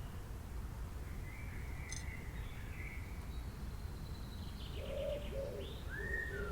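Birds chirping and calling over a steady low rumble, with short high gliding chirps; from about five seconds in, lower cooing calls join them.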